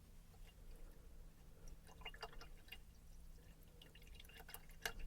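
Faint water sounds of a paintbrush being dipped and rinsed in a cup of water: small drips and trickles with light clicks, the sharpest click near the end.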